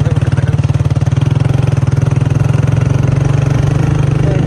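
Motorcycle engine running steadily, with a fast, even firing beat.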